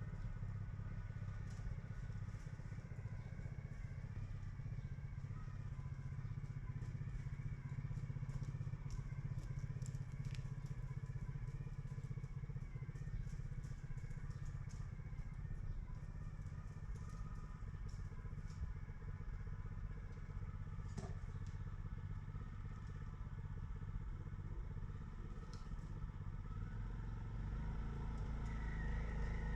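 An engine running steadily with a low drone and scattered faint clicks, growing louder over the last couple of seconds.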